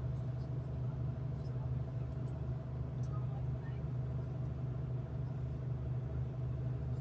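Steady low hum inside a V/Line passenger train's carriage as it moves slowly along a station platform, with a faint constant whine above the hum and a few light ticks.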